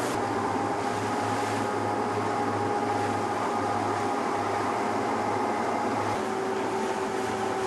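A motorboat's engine running steadily, with a steady whine in it that shifts slightly about six seconds in, over wind and water noise.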